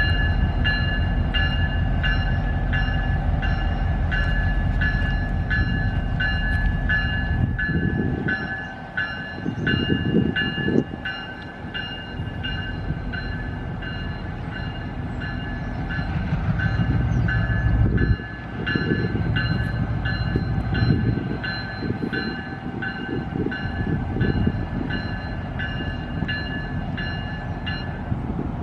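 A train rumbling past, its noise swelling and easing as the cars go by. Over it a grade-crossing bell rings with a steady, rapid rhythm.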